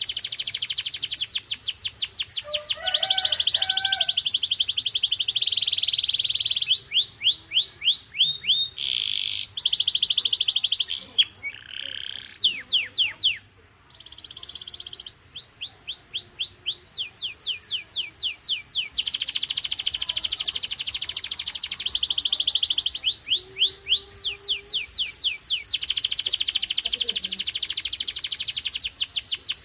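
Domestic canary singing a continuous song of fast, high rolling trills, broken by runs of quickly repeated sweeping notes, several a second.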